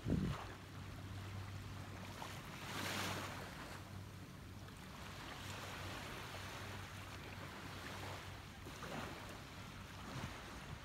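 Sea waves washing onto a beach in swells, with wind on the microphone and a steady low hum underneath. A brief low thump comes right at the start.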